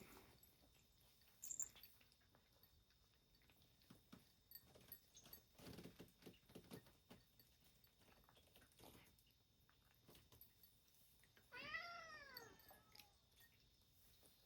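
A house cat meows once, a single call that rises and falls in pitch, about twelve seconds in, asking for food at feeding time. Otherwise near silence with faint small clicks.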